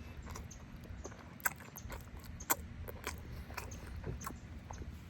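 Close-miked chewing of rotisserie chicken, with wet, irregular mouth smacks and clicks. Two sharper clicks come about one and a half and two and a half seconds in.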